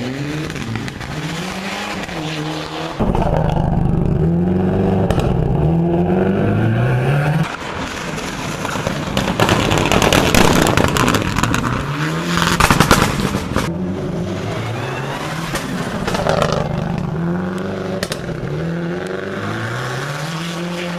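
Rally cars accelerating hard, the engine note climbing and dropping back with each quick upshift, in several clips cut together. Partway through, a stretch of loud rushing noise sounds over the engines.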